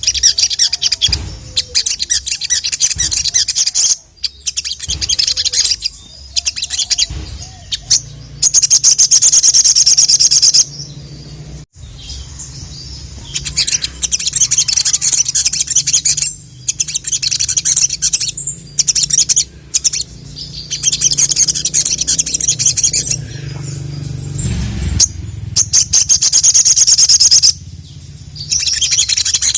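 A sogon (sogok ontong) sunbird singing a rapid, high-pitched twittering song in bursts of a few seconds with short pauses between. A faint low hum runs underneath.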